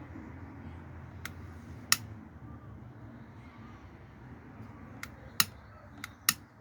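About six sharp metallic clicks and clinks from tools or parts being handled, spread unevenly over a low, steady background noise.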